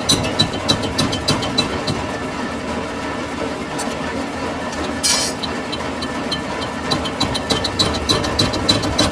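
Metalworking lathe running with a steady hum and a regular sharp ticking, about three ticks a second, that fades for a few seconds and comes back faster near the end. A short hiss about five seconds in.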